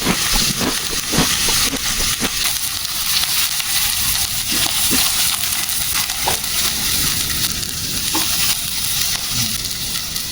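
Food sizzling on an electric grill pan, a steady hiss with occasional sharp clicks.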